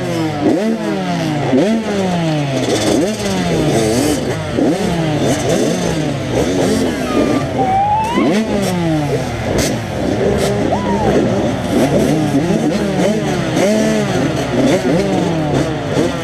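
Several 85cc two-stroke motocross bikes running on the track at once. Their engines rev up and drop back again and again with throttle and gear changes, overlapping one another.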